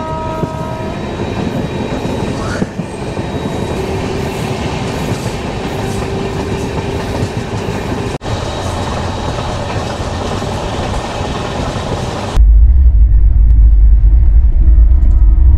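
Express train coach running at speed, heard at an open door: wheels running over the rails amid rushing air. About twelve seconds in, this switches abruptly to a louder, heavy low rumble of the train heard from inside the coach.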